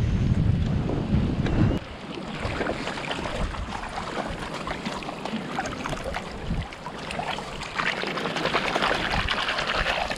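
A gust of wind buffets the microphone for the first couple of seconds, then light rain falls with a steady, fine crackling patter.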